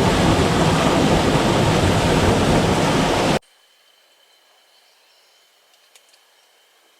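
A loud, even rushing noise cuts off abruptly about three and a half seconds in, leaving only a faint hiss with a thin steady tone and a single click.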